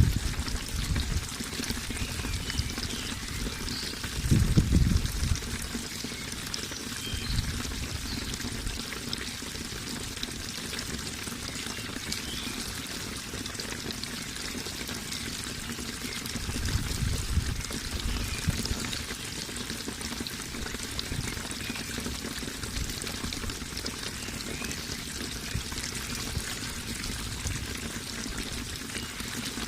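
Running water splashing and trickling steadily, with a few deeper low swells about four seconds in and again around seventeen seconds.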